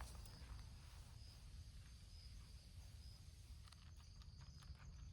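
Near silence: faint outdoor ambience with a faint short high chirp repeating about once a second, and a few faint ticks near the end.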